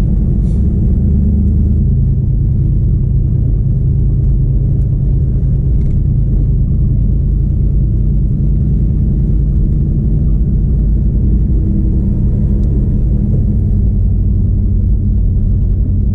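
The 5.3-litre LS V8 in a 1980 Camaro Z28 running steadily at cruise, a deep even rumble heard inside the cabin.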